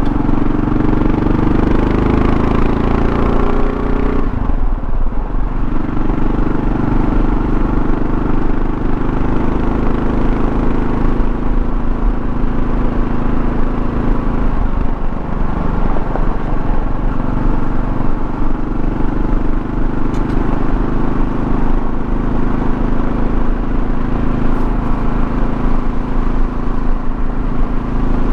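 Kawasaki KLR650's single-cylinder engine running under way, with wind and road noise. Its pitch rises over the first four seconds, dips briefly about four seconds in and again around the middle, then holds steady.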